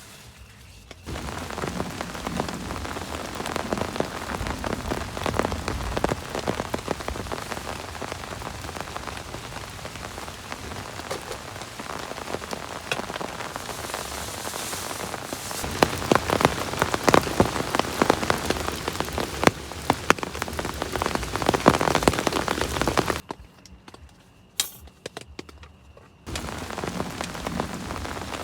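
Heavy rain falling, a dense hiss with many sharp drop hits standing out. It grows loud about a second in, drops away abruptly for about three seconds near the end, then comes back.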